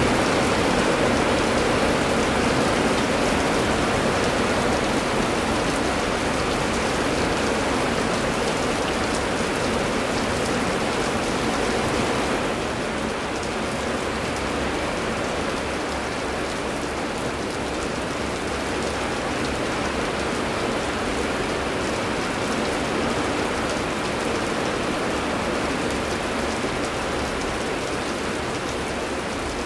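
Heavy rain pouring steadily, a dense even hiss of drops on surfaces, easing slightly about halfway through.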